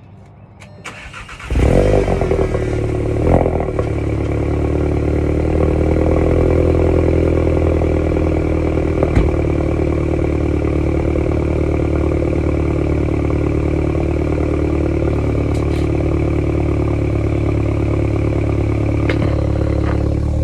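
Volkswagen Mk7 GTI's turbocharged 2.0-litre four-cylinder cold-starting through a catted aftermarket downpipe and the stock muffler: a short crank, then the engine catches with a loud flare about a second and a half in and settles into a steady idle.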